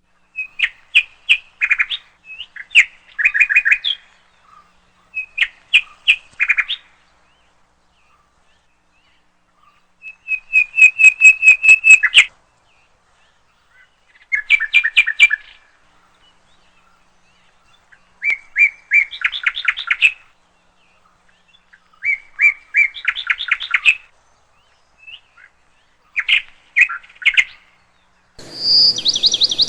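A bird singing in short phrases of rapid repeated notes, each phrase lasting a second or two, with pauses between them. Near the end a higher phrase comes in over a steady hiss.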